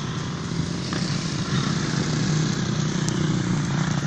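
Motocross bike engines running, a steady drone that grows a little louder about a second and a half in.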